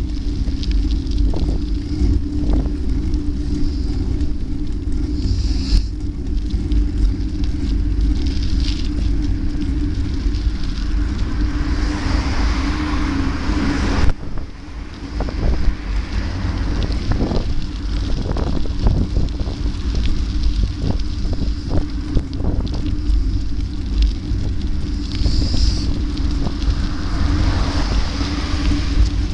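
Wind buffeting the microphone of a moving rider, over steady road noise and a steady hum. A swell of hiss builds about twelve seconds in and cuts off suddenly a couple of seconds later, followed by a run of light clicks and knocks.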